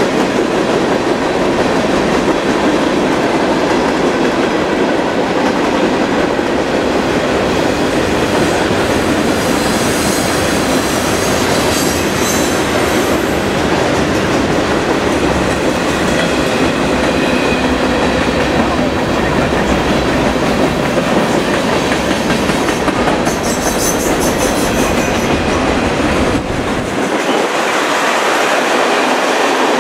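CSX mixed freight train of tank cars and boxcars rolling past: steady noise of steel wheels on rails, with brief high wheel squeals about halfway through and again later. The low rumble drops away suddenly near the end.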